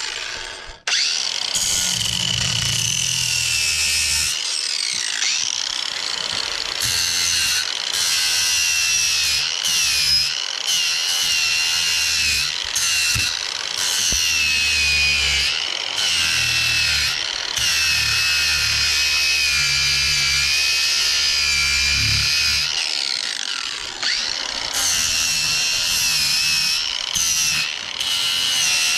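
Angle grinder with a flap disc grinding down metal: a steady high whine that wavers in pitch as the disc bears on the work, with short dips where it eases off. It starts about a second in.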